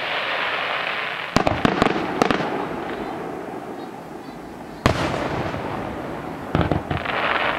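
Aerial fireworks shells bursting: a sharp bang about a second and a half in, followed quickly by a string of cracks, then another bang about five seconds in and a pair near the end. Each burst leaves a hissing wash that slowly fades.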